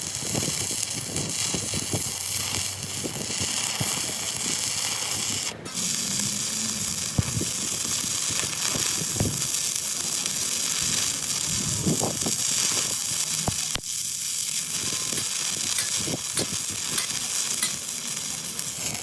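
Electric welding arc sizzling and crackling steadily on the steel of a loader boom, breaking off briefly twice.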